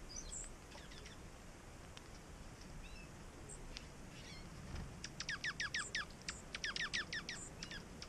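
Songbird calls: a few faint high chips, then about halfway through two quick series of loud whistled notes, each sliding steeply down in pitch, about seven a second.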